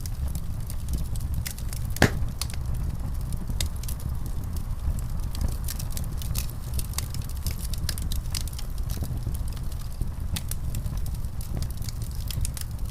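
Fireplace fire burning with a steady low rumble and frequent small crackles, with one louder pop about two seconds in.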